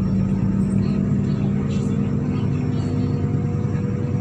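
MAZ-103.486 city bus under way, heard on board: its engine drones steadily with a low rumble from the running gear.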